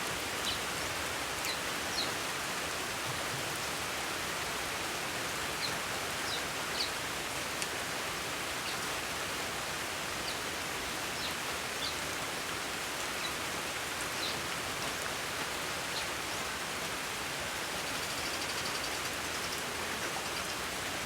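Steady rain, an even hiss with scattered light ticks of drops.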